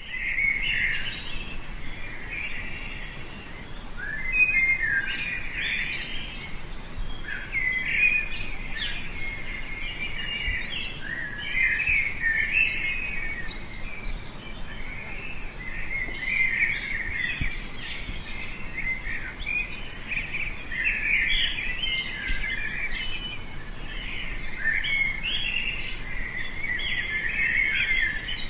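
A chorus of several songbirds chirping and singing continuously in a forest, many quick overlapping notes, over a faint steady background hiss.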